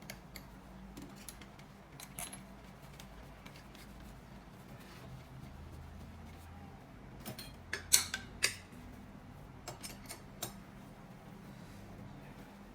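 Small metal tools and engine parts being handled, giving scattered light clicks and clinks, with a quick run of sharper clinks about eight seconds in.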